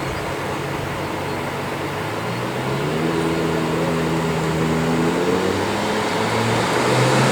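Lamborghini Gallardo V10 engine running at fairly steady revs, its note coming up out of a background hiss about two and a half seconds in and growing gradually louder, with the pitch rising again near the end.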